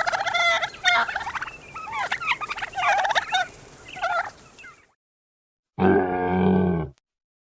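Turkeys gobbling: a string of rapid, warbling gobbles, some overlapping, over about the first five seconds. After a pause of about a second comes a single low, steady call lasting about a second.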